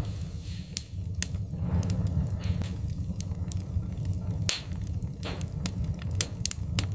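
Wood fire crackling in a fireplace: irregular sharp pops and snaps over a steady low rumble of the flames, with a few brief hisses.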